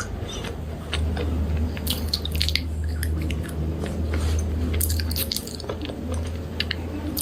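Close-up crunching and chewing of slate pencils: many sharp, irregular crackles as the brittle pieces are bitten and ground between the teeth. A low steady hum sits underneath from about a second in.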